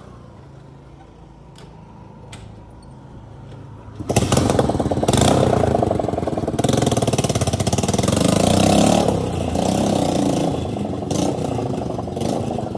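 Motorcycle with a burst exhaust silencer idling quietly, then about four seconds in revving hard and staying loud, with a rapid, raw, unmuffled exhaust beat likened to a Royal Enfield Bullet.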